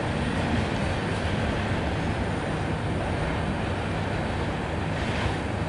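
Freight train's cars rolling away on the rails: a steady rumble of steel wheels on track as the rear of the train moves off.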